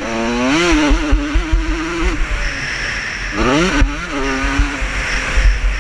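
Vintage motocross motorcycle engines revving up twice, each time rising sharply in pitch and then holding at a steady high pitch, as bikes accelerate past on the race track.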